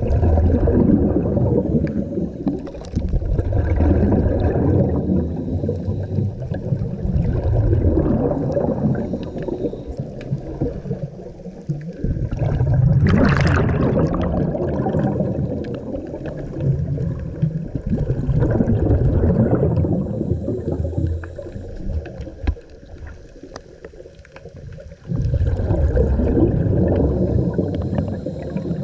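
Scuba diver breathing through a regulator underwater: bursts of exhaled bubbles gurgle every few seconds, with quieter gaps for each inhalation.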